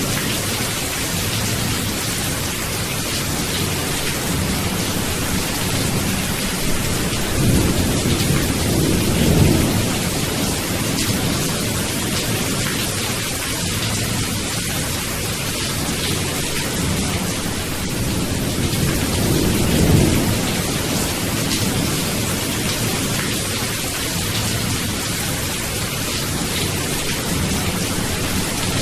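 Steady rainfall with low rolling thunder swelling twice, once about a third of the way in and again about two-thirds through.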